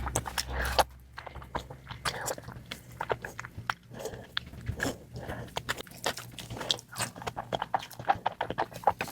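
A person chewing and biting food, with many irregular wet mouth clicks and smacks.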